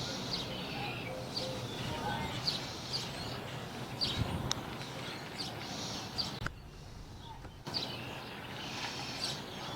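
Small birds chirping in short, scattered notes over a steady low background hum of outdoor noise. About two thirds of the way through, the sound drops out almost entirely for about a second.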